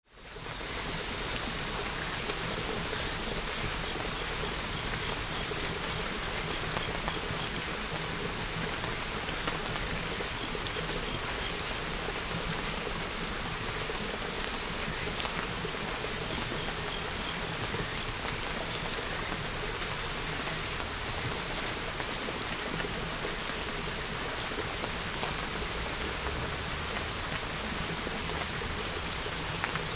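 Steady hiss of rain, fading in over the first second and then holding even.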